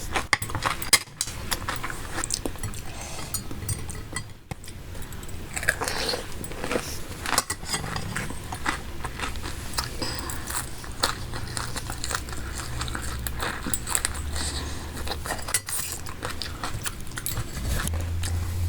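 Close-miked ASMR eating sounds: wet, saucy chewing and crunching of fresh oysters, with many small clicks and crackles throughout.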